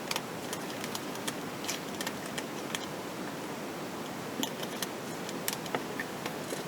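Light, irregular clicks and taps of small hard parts being handled, over a steady hiss.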